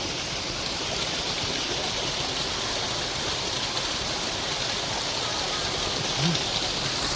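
Waterfall and creek water rushing steadily over rocks, a continuous hiss.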